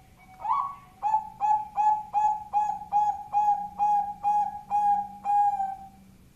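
Bangkok-type zebra dove (perkutut) cooing: a rising opening note, then a long run of about a dozen short, evenly spaced coos, about two and a half a second, ending about six seconds in.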